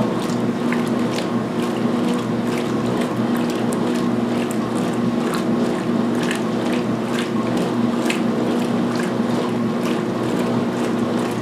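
Speed Queen top-load washer's belt-driven agitator running at high speed through a load of towels in water during the pre-wash. A steady motor and transmission hum is heard under water swishing and irregular clicks.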